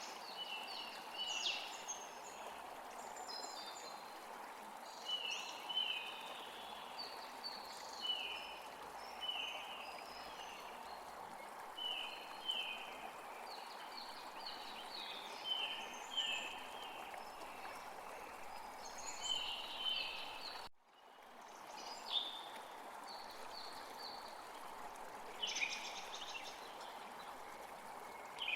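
A bird calling over and over in short, high, falling chirps about once a second, over a steady rush of running water. The sound drops out briefly about 21 seconds in.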